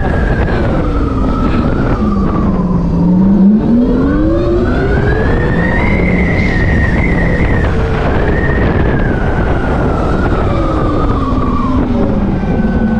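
Tarform Luna electric motorcycle under way, its drive whine falling in pitch as it slows, climbing again about four seconds in as it speeds up, holding, then falling once more near the end. Heavy wind rumbles on the microphone underneath.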